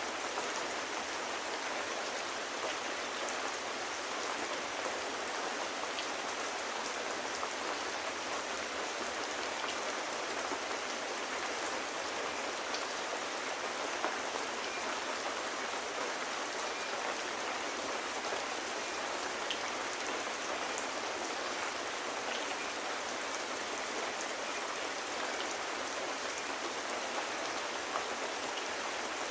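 Steady rain falling: an even hiss with occasional faint sharp ticks.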